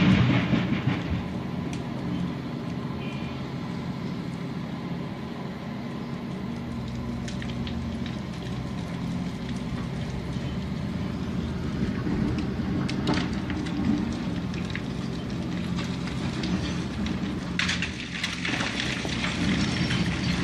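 Heavy vehicle engine running steadily, with a loud burst of noise at the start and scattered metallic knocks and clatter, the loudest of them a little past halfway and about three seconds from the end.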